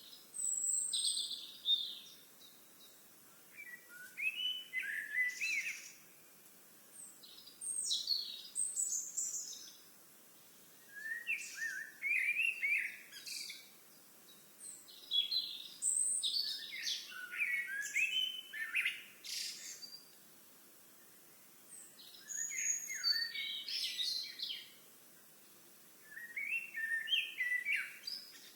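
A songbird singing: short, complex, chirpy song phrases about two seconds long, repeated every three to four seconds.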